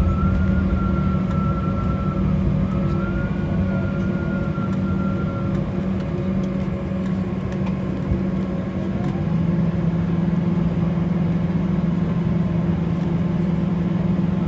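Embraer E190 cabin sound on the ground after landing: a steady engine drone with a low hum that drops slightly in pitch about nine seconds in. A high wavering whine runs over it for the first five seconds.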